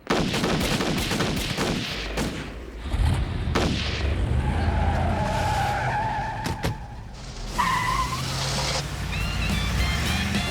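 Shots ring out in the first few seconds. A car engine then rumbles as the car speeds away, its tires squealing twice in the middle. Music begins near the end.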